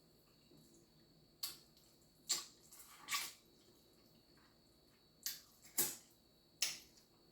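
Close-miked wet eating sounds: chewing with about six sharp, wet mouth smacks spaced irregularly, roughly a second apart.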